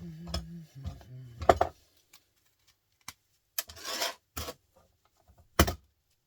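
Scrap metal parts being worked apart by hand with a tool: scattered clicks and knocks, a rasping scrape about four seconds in, and one sharp knock near the end.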